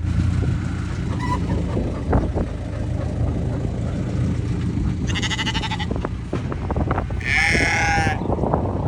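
Dorper sheep bleating twice, about five and seven seconds in; the second bleat is louder and longer. A steady low rumble runs underneath.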